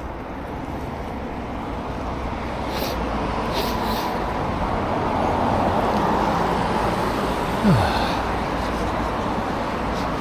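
Road traffic noise that swells as a vehicle passes and then eases, with a short low thump about eight seconds in.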